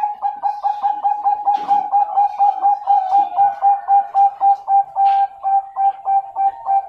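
Zebra dove of the Bangkok perkutut song strain cooing: a fast, even run of short coos, about four a second, that starts abruptly.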